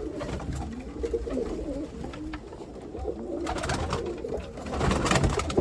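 Many pigeons cooing together in a loft, overlapping low coos, with scattered scuffs and flutters toward the end.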